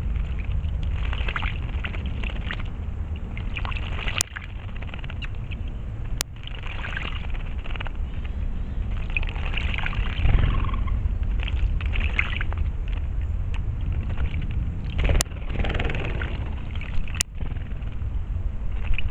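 Outdoor ambience at a water hole: steady noise with a low rumble and irregular rustling, broken four times by a sharp click where the sound briefly cuts out.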